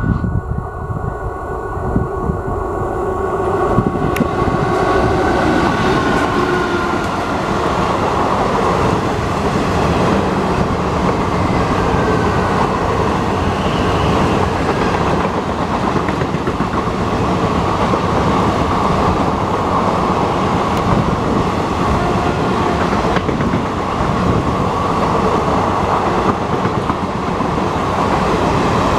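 A WAP-4 electric locomotive approaches and passes at speed, the noise building over the first few seconds. Its express coaches then run past in a continuous loud rumble, with the wheels clattering over the rails.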